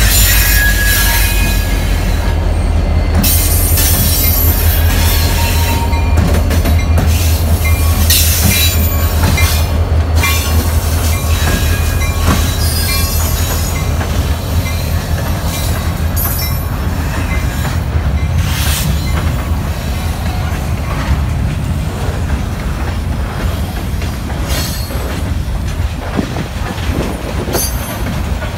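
CSX freight train passing close by: the diesel locomotives' engines rumble low and heavy for roughly the first two thirds, then weaken as the cars follow. Steel wheels clack over the rail joints throughout, with a brief thin wheel squeal early on.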